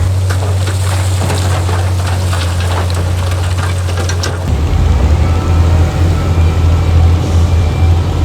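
Heavy diesel construction machinery running loudly, with a spell of crackling and rattling over the engine in the first half. About halfway through the engine note gets louder and deeper, as if it is taking on load.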